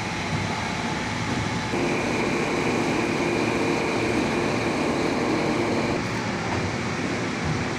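Steady industrial machinery noise, with a humming tone that comes in about two seconds in and fades out about six seconds in.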